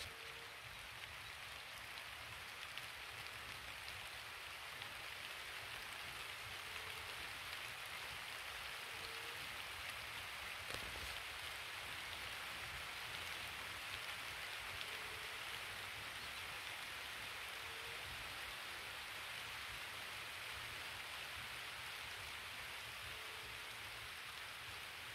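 Light rain falling steadily.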